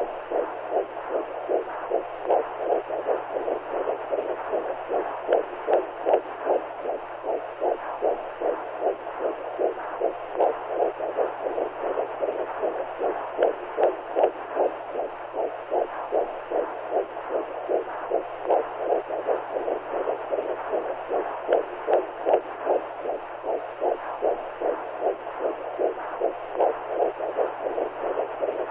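Womb sound for soothing newborns: a steady, rhythmic whooshing pulse like a heartbeat heard through the body, about two beats a second, over a low steady hum.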